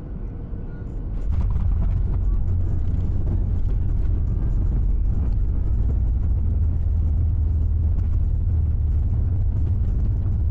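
Boeing 737 MAX 8 landing: a low rumble that jumps suddenly to a much louder, steady roar about a second in, typical of touchdown and the landing roll.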